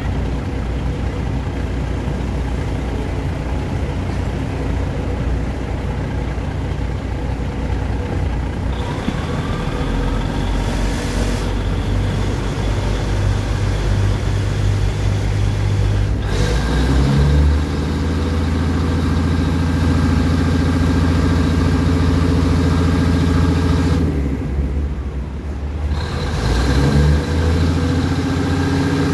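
Diesel passenger train running slowly, heard from its own open window: a steady engine drone with rumble from the track. A bit over halfway through, the engine note steps up and gets louder. Near the end it dips for a couple of seconds, then picks up again.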